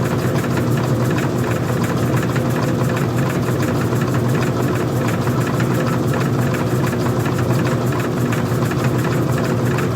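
Old-style front-loading washing machine running: a steady motor hum with an even, fast mechanical rattle.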